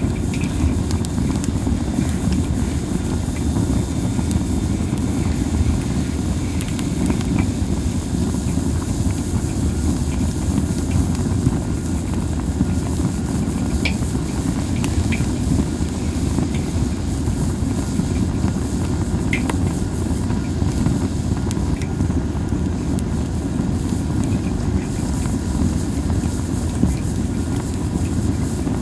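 Steady low rumble of wind on the microphone over a burning fire of masaki (Japanese spindle) wood, with a few isolated sharp crackling pops from the burning wood.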